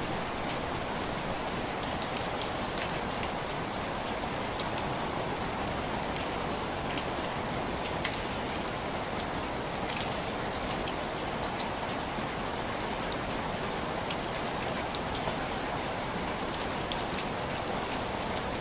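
Steady rain pattering on window glass: an even hiss of rainfall with many small, scattered drop taps.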